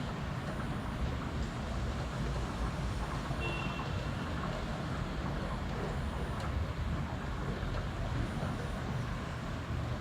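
Heavy rain falling steadily, a dense even hiss with a deep rumble underneath. A brief high tone sounds about three and a half seconds in.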